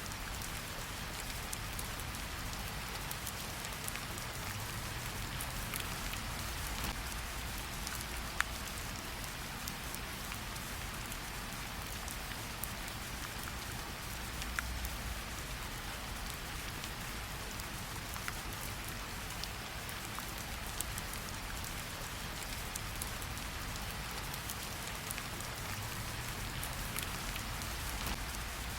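Steady light rain pattering on tree leaves, with scattered sharper drips standing out from the even hiss.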